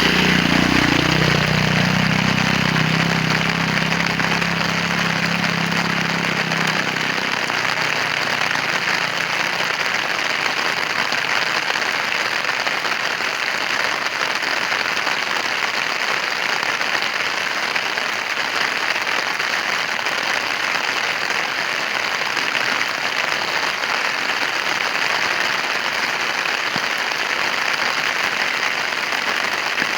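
Heavy rain falling steadily, a dense even hiss. A low engine hum is heard under it for the first several seconds and fades away.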